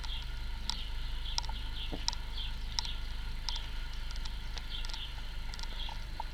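Small bird cheeping in short, high peeps about every 0.7 s, with fainter chirps in between, over a steady low hum.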